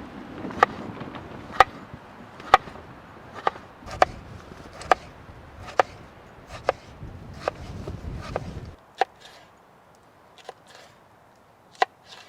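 Sharp chopping knocks, roughly one a second, over a low steady rumble that cuts off abruptly about nine seconds in; a few more knocks follow, more sparsely.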